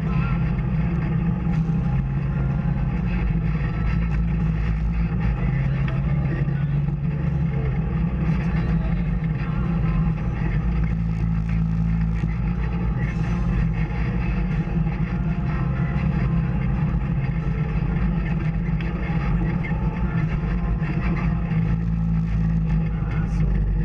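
Off-road vehicle engine running steadily as it drives along a trail, holding an even pitch.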